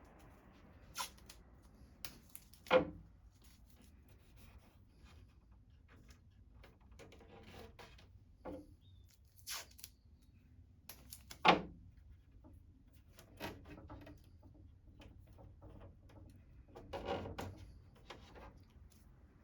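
Wooden drawers being handled: scattered light knocks and clicks of wood, with two sharp, louder knocks, about three seconds in and just past the middle, and a short rubbing scrape near the end.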